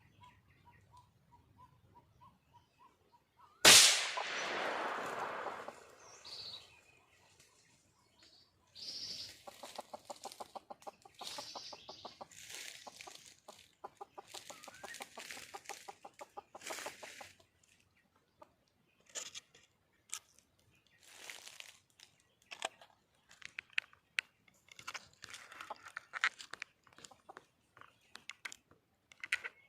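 Junglefowl hen clucking in long rapid runs of pulses, with scattered shorter calls, a wild hen's call to attract a rooster. A sudden loud burst about four seconds in fades away over a couple of seconds.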